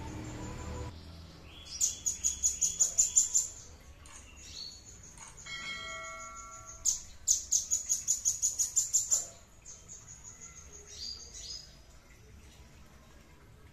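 A songbird singing: two fast, loud trills of rapidly repeated high notes, each lasting about one and a half to two seconds, with softer single notes and a short call between them.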